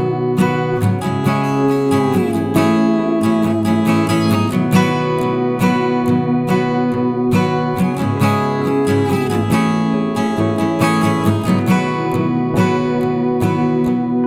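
Acoustic guitar music: steadily strummed chords, with notes that now and then slide down in pitch.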